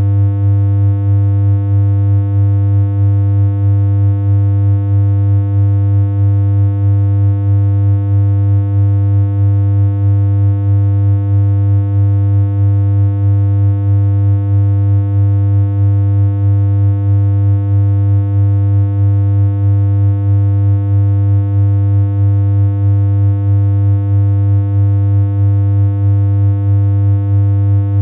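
A steady synthesized hum: one low electronic tone, buzzy with many overtones, held unchanging at the same pitch and loudness.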